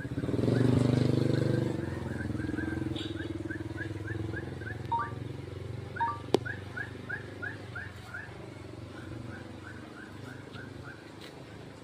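A motor vehicle engine, most like a passing motorcycle, is loudest about a second in and then fades. Over it runs a series of short quick chirps, about three a second, dying out near the end, and there is one sharp click about six seconds in.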